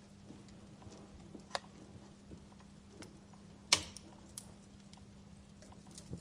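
Wood fire crackling in a fireplace: a low hiss with scattered sharp pops, the loudest about halfway through and a smaller one about a second and a half in. A faint steady low hum runs under it.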